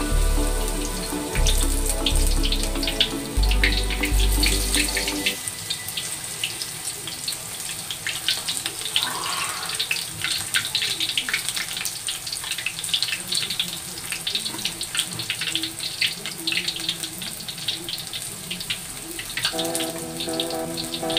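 Battered mushroom pieces deep-frying in hot oil in a wok, a dense, steady crackling sizzle. Background music plays over the first five seconds or so and comes back near the end.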